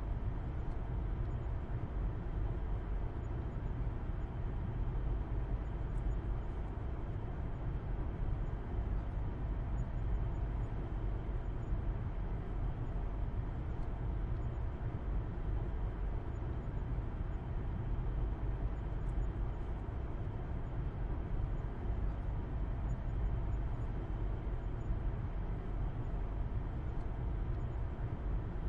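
Steady drone of a car being driven, heard as a constant low rumble of engine and road noise with no changes in speed.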